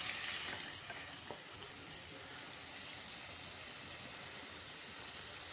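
Sliced potatoes frying in ghee and tomato-onion masala in an aluminium pot, sizzling steadily while being stirred with a wooden spoon. A few light spoon scrapes come near the start, when the sound is a little louder.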